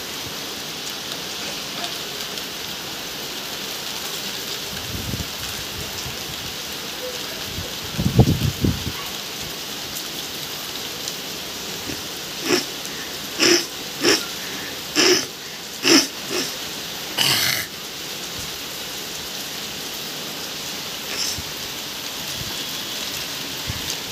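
Heavy rain pouring steadily. A brief low rumble comes about a third of the way in, and shortly after the middle there is a quick string of about seven short, loud calls.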